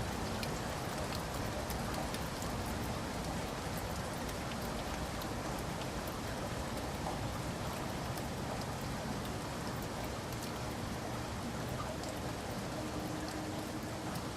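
Steady rain falling: an even hiss with many scattered, sharp ticks of single drops striking a surface.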